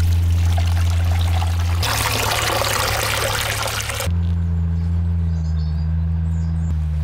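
An electric motor running with a steady low hum, and a stretch of loud hissing noise over it from about two to four seconds in.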